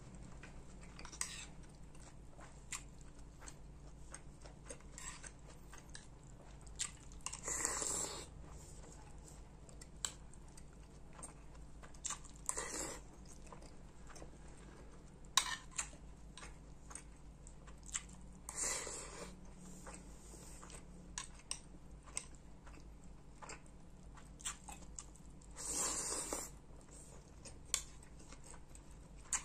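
A person eating soto ayam, chicken soup with noodles, fast: chewing, with many sharp clicks and four louder rushing sounds of about a second each.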